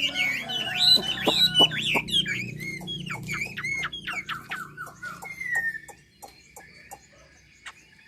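Chinese hwamei (họa mi) singing a fast, varied song of swooping whistled notes. The song breaks into short, sharp, spaced notes and fades to quiet about six seconds in.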